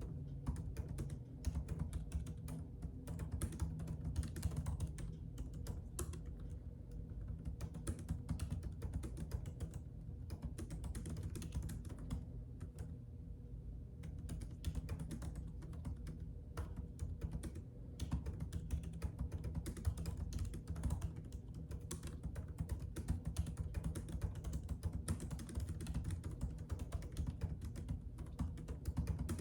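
Typing on a computer keyboard: a continuous, irregular patter of keystroke clicks with a brief lull about halfway through, over a steady low hum.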